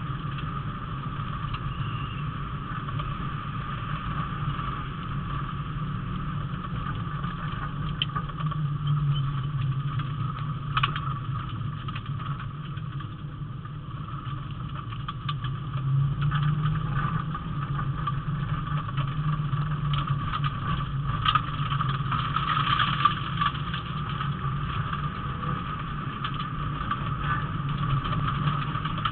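Rally car engine heard from inside the cabin, running hard on a stage, its note rising and falling with the driving. Scattered sharp clicks and knocks come from the road surface.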